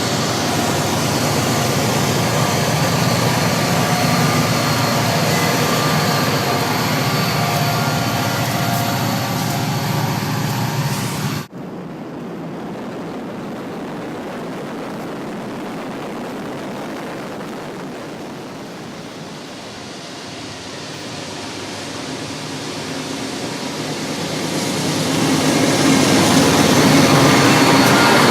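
Diesel-electric freight locomotives running under power, a loud, steady engine drone with several held tones. About eleven seconds in it drops abruptly to a quieter rumble, which swells again near the end.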